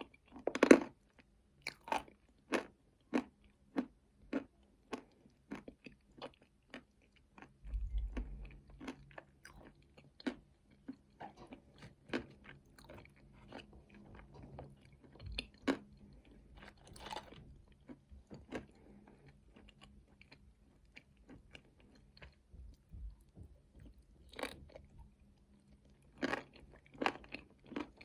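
Close-miked chewing of nuts with chocolate paste: a long run of crisp crunches, roughly two a second, with a loud bite just under a second in.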